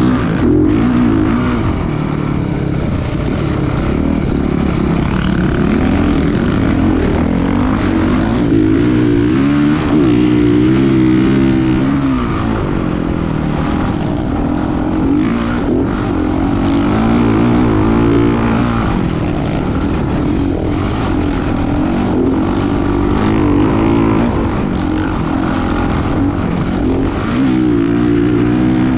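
Dirt bike engines running at motocross, revving up and down over and over, with the pitch climbing and falling several times.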